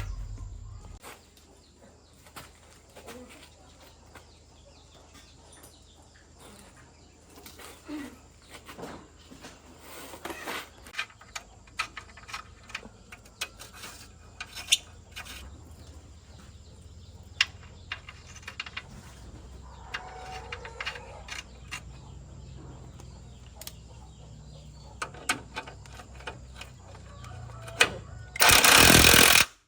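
Truck-repair work: scattered clicks and knocks of metal tools over a steady low engine rumble that grows stronger about halfway through. A loud burst of noise lasting about a second comes near the end.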